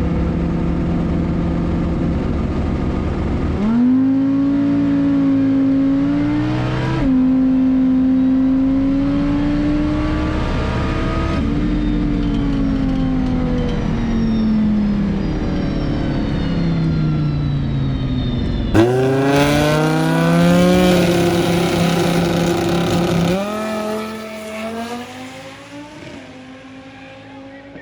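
Drag racing car engine under hard acceleration, its pitch climbing in steps with a gear shift about seven seconds in, then falling steadily away. About two-thirds of the way through, a sudden loud burst of engine and rushing noise climbs sharply again, then drops off over the last few seconds.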